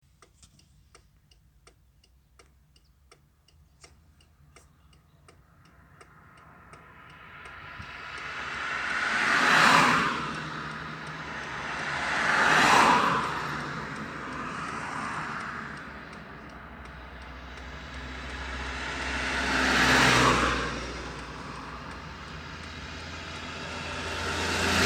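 Motorway traffic: vehicles pass one after another, each rising to a loud rush and fading away. In the first few seconds there is a faint, quick, regular ticking.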